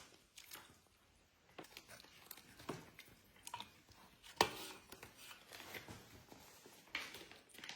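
Soft, scattered clicks and taps of food and utensils being handled while cooking noodles, with one louder knock about four and a half seconds in.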